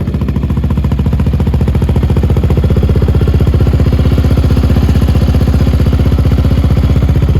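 Yamaha Raptor 700 ATV's single-cylinder four-stroke engine idling steadily, with a fast, even beat of exhaust pulses.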